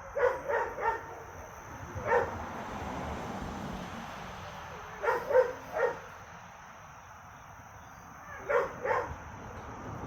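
Dog barking in short clusters during rough play: three quick barks, a single bark, three more, then two.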